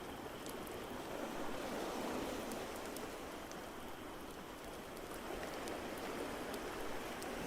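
Mixed ambience of ocean surf rushing steadily and swelling slowly, with sharp scattered crackles from a wood fire.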